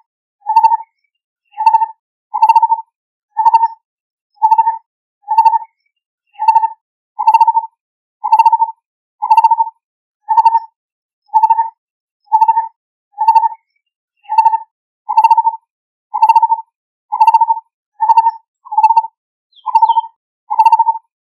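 Lineated barbet calling: a long series of short, low, mellow notes, about one a second, each the same pitch. It is the call the bird gives to its mate.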